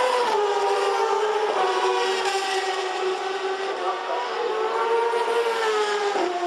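Four-stroke superbike racing engine running at high revs. Its note wavers and dips a little in pitch shortly after the start and again near the end.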